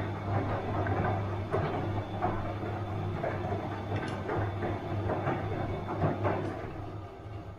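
Bosch washing machine running a wash cycle: a steady low motor hum with water sloshing in the turning drum and a few irregular soft knocks, getting a little quieter near the end.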